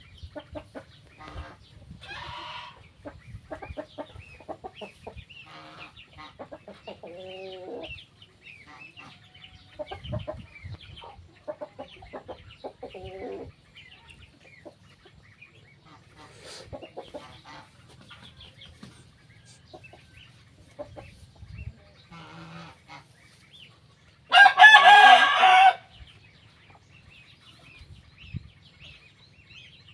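Farmyard hens clucking on and off in short calls, with one loud rooster crow lasting a second or two late on.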